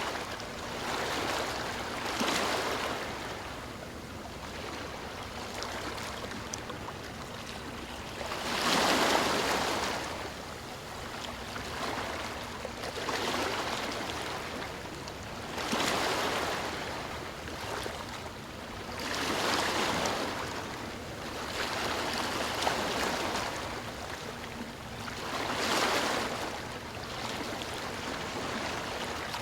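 Ocean waves breaking and washing on a shore, each surge of surf swelling and falling away every few seconds, the strongest about a third of the way in.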